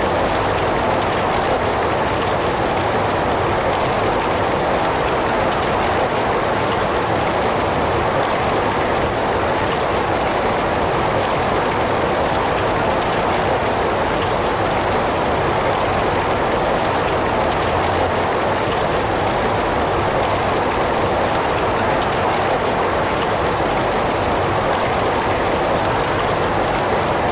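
Heavy rain falling steadily: a dense, even hiss of rain on surfaces that stays constant.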